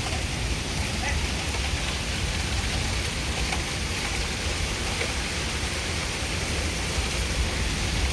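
Heavy rain falling steadily in a thunderstorm, with a low rumble of wind underneath.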